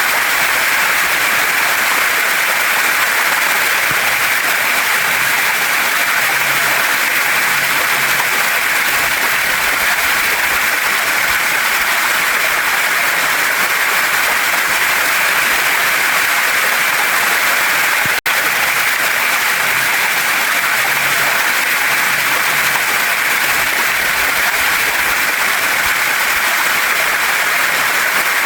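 Waterfall and stream water rushing steadily over rocks, a loud, even, hissing wash with no pauses in the flow. The sound cuts out for an instant about two-thirds of the way through.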